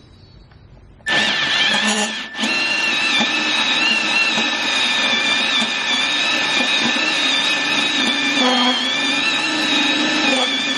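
Milwaukee M12 cordless band saw starting up about a second in, dipping briefly, then running steadily with a high whine.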